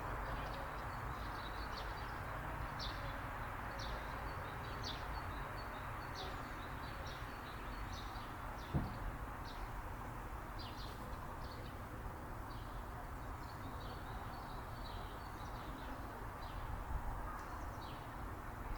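Small birds chirping, many short high calls scattered throughout, over a steady low background noise. A single sharp click about nine seconds in.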